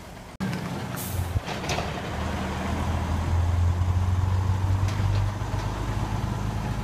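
Ten-wheel dump truck's diesel engine running, growing louder from about three seconds in, with a short hiss of air about a second in.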